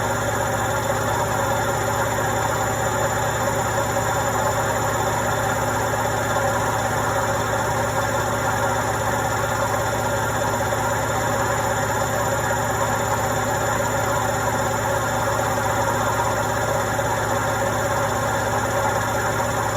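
Indesit washing machine running steadily: an even mechanical hum and whir with a steady low drone and a few constant tones over a noisy wash, unchanging throughout.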